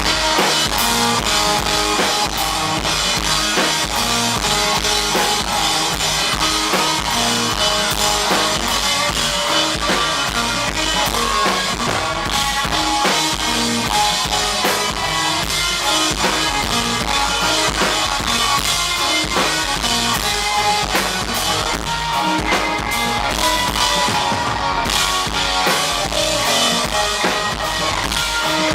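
Live band playing a loud instrumental interlude, driven by a steady drum-kit beat of bass drum and snare.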